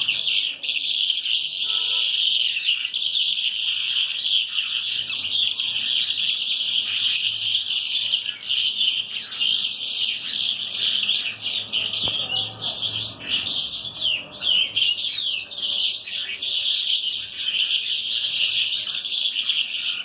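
Many caged birds chirping together in a dense, continuous chorus, with a few clearer sweeping chirps standing out about two-thirds of the way through.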